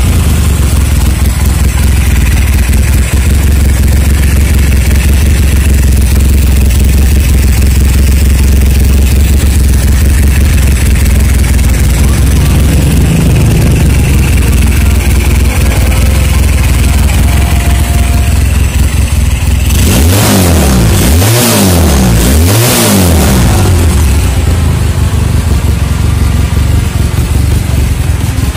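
Honda Tiger motorcycle's 400cc parallel-twin engine idling steadily, then blipped three quick times about twenty seconds in before settling back to idle.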